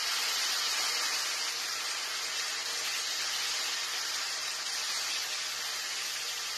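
Masala of browned onion, ginger-garlic paste and ground spices sizzling steadily in hot oil in a wok as it is stirred, a little water just added to it while it fries.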